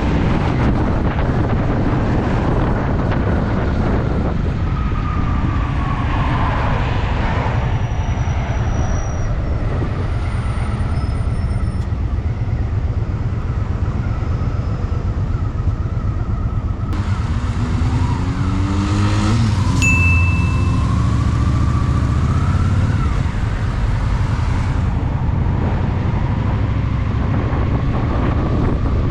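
Honda Shadow VT750's V-twin engine running under way in city traffic, revving up about two-thirds of the way through as the bike accelerates.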